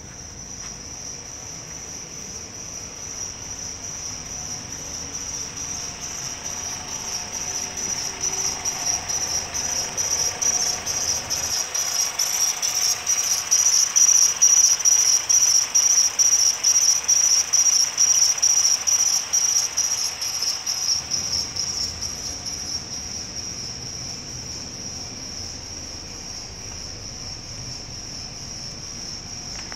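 2008 Hyundai Sonata's 2.4-litre DOHC four-cylinder engine idling, with a high-pitched, rhythmically pulsing chirp over it. The chirp swells loudest in the middle and fades again.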